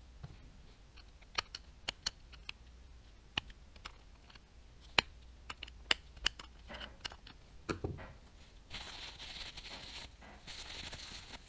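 Small parts of a Daiwa Tatula 100 TWS baitcasting reel clicking and tapping against each other as it is handled, about a dozen sharp clicks, then two longer rasping stretches of about a second each near the end.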